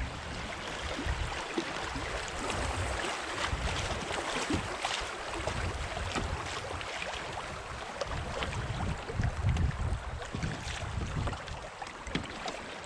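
Fast-flowing creek water rushing over shallow rapids as a steady hiss, with wind buffeting the microphone in irregular low rumbles.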